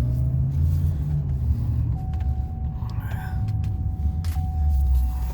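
Chevrolet Silverado 2500HD's 6.0-litre V8 engine running with a steady low rumble. A thin, steady high tone comes in about two seconds in.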